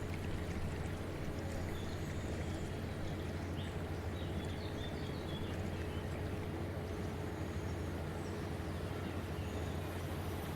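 A steady low hum under an even wash of noise, with a few short, faint high chirps about two to five seconds in.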